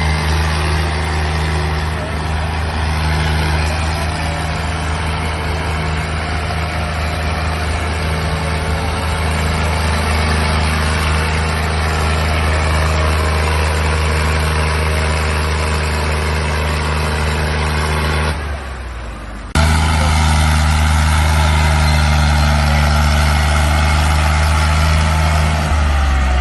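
Diesel tractor engine running steadily and loudly. It briefly drops away about eighteen seconds in, then comes back at the same level.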